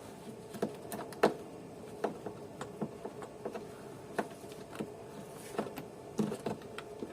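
Irregular light clicks and knocks of hard plastic being pulled and pried as the windscreen washer pipe and its clips are worked loose, the sharpest knock about a second in.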